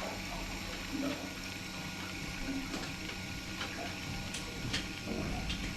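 A steady low hum with a few faint, scattered clicks and light taps.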